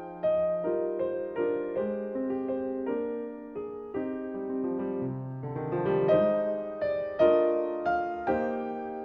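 Background piano music: a gentle, unhurried piece of struck notes and chords, with a short rising run of notes about halfway through.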